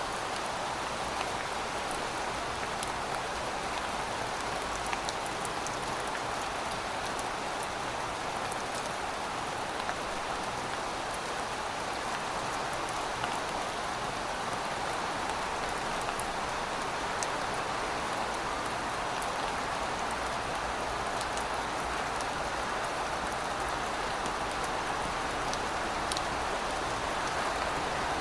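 Heavy rain falling steadily, a dense even hiss with scattered sharp drop ticks on hard surfaces.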